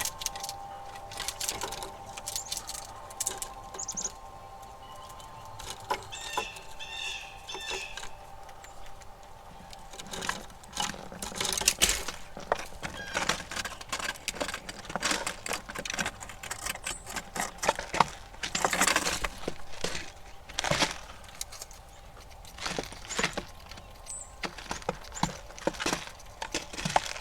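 Squirrels feeding at a backyard feeder: an irregular run of small clicks, scratches and rustles. A short burst of bird chirps comes about six seconds in, and a faint steady whine sits underneath for the first ten seconds.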